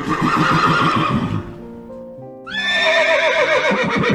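Horse whinnying twice, the second call starting a little past halfway and falling in pitch in quick, quavering pulses, over background music with held notes.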